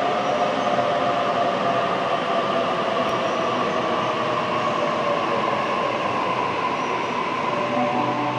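Metro train running: a steady rumble of wheels on rail with a motor whine that drifts slowly in pitch.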